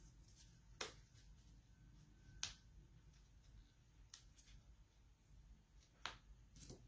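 Near silence with a handful of faint, sharp ticks and taps from craft materials being handled on a desk: paper, thread and glue dots.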